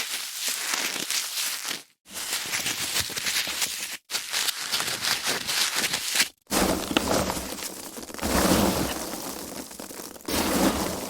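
Foam packaging being handled, squeaked and crumpled: a dense crackling rustle in several stretches, each cut off abruptly, with a brief gap about two, four and six and a half seconds in.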